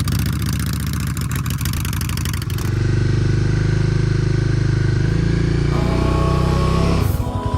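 Motorcycle engine running steadily while riding, with wind rushing over the microphone during the first few seconds. The sound changes abruptly about a third of the way in and again near the end.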